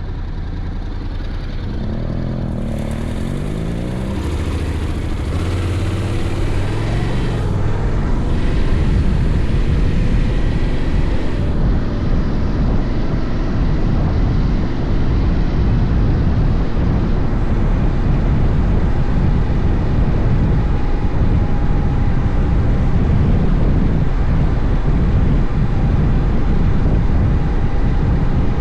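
Honda X-ADV's 745 cc parallel-twin engine rising in pitch as the scooter-style motorcycle speeds up a few seconds in, then cruising at a steady speed under loud, even wind and road noise.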